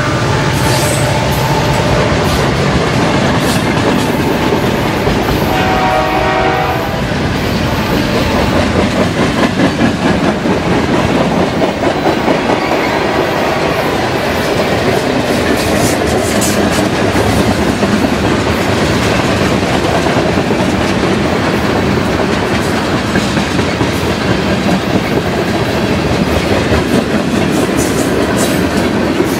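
A loaded freight train's boxcars and tank cars roll past close by, with a loud, steady rumble and the clatter of steel wheels over the rail joints. About six seconds in, a brief pitched tone rises above the rolling noise.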